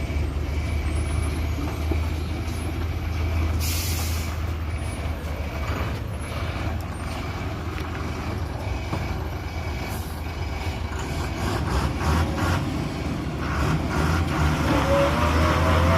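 A lorry's diesel engine running steadily, with a short hiss of air about four seconds in. The engine pitch rises and it gets louder near the end as it is revved.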